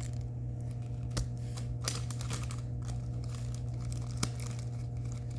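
Small plastic bags of diamond-painting drills crinkling as they are handled, with a few sharp clicks, over a steady low hum.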